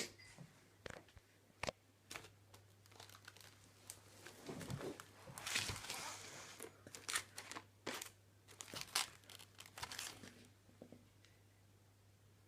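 Handling noise close to the microphone: crinkling and rustling with scattered clicks and knocks, dying away about ten and a half seconds in.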